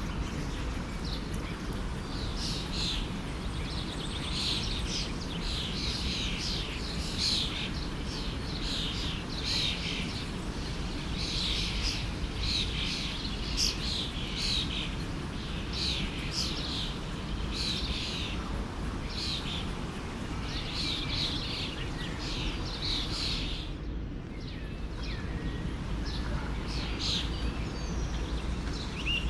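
Songbirds chirping and singing in quick repeated calls over the steady rush of a flowing forest stream.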